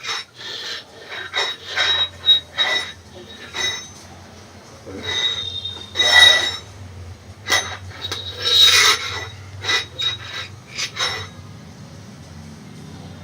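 Hard objects being clinked and knocked together by a playing baby, in an irregular run of sharp hits, several ringing with a clear tone. The hits are loudest about six and nine seconds in and die away near the end.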